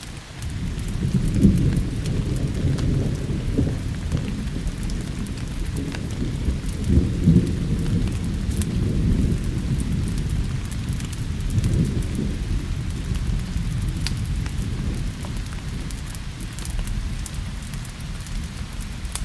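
Thunder rumbling in long rolling swells under steady rain, with scattered sharp ticks over the hiss. The rumble dips briefly at the start, then rises again.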